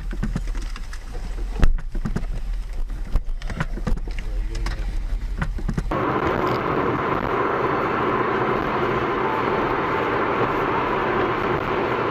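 Dashcam audio of a car on the road: low engine and road rumble with scattered knocks and one sharp bang about a second and a half in. About six seconds in it cuts to a steady hiss of road noise.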